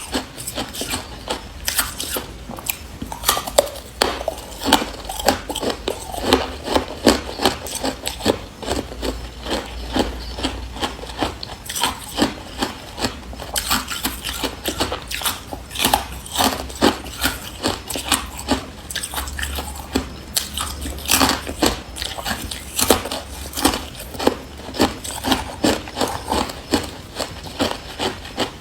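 Close-up biting and chewing of hard carbonated ice: a dense run of sharp, irregular crunches, several a second.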